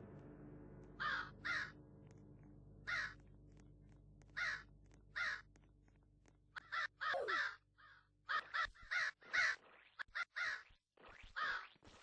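Crow cawing: a series of short harsh caws, a few well spaced at first, then coming quickly one after another from about halfway through.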